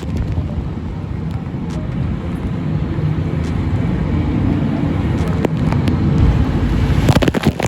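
Jet boat running hard through river rapids: a steady low rumble of engine, rushing water and wind that builds slightly, with a quick run of sharp knocks near the end.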